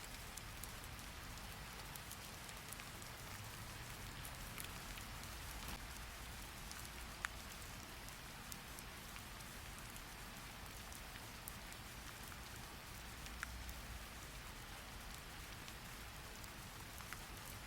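Steady rain falling: a soft, even hiss with scattered sharp ticks.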